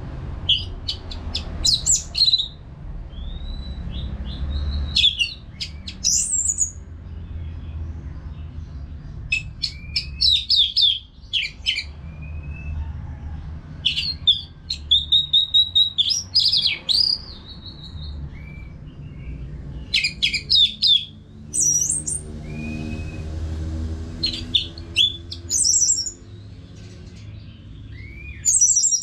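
Orange-headed thrush singing in bursts of rapid, varied chirps and whistles with short pauses between phrases, over a low background rumble.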